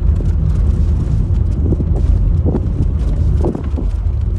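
Steady low rumble of a car on the move: road and engine noise with wind buffeting the microphone.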